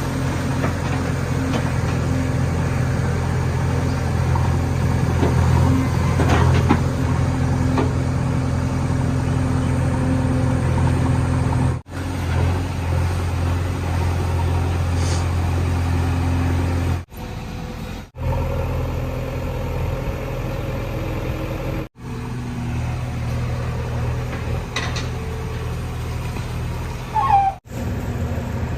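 JCB 3DX backhoe loader's diesel engine running steadily, with the sound cutting off briefly several times. A short squeak comes near the end.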